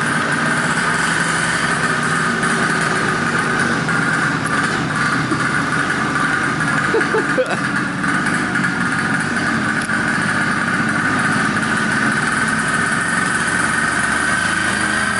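Small Chinese 50cc two-stroke engine on a drift trike, running steadily with a fairly high-pitched drone.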